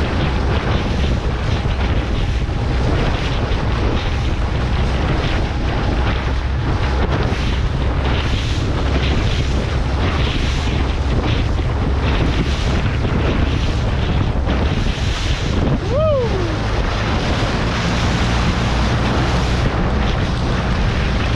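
Small motorboat running at speed across choppy lake water: a steady engine drone under heavy wind buffeting on the microphone and the hull slapping through waves. A short gliding pitched sound, falling then rising, comes about three-quarters of the way through.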